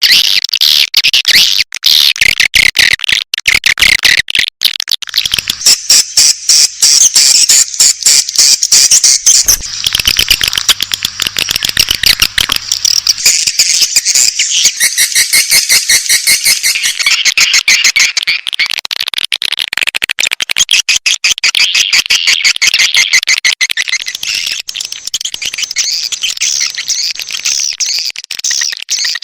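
Edible-nest swiftlet calls: dense, rapid twittering and clicking chirps with no pause, a swiftlet-house lure call meant to draw swiftlets in.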